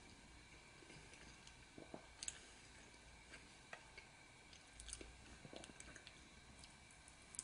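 Faint chewing and mouth noises from people eating, with a few soft clicks and ticks scattered through.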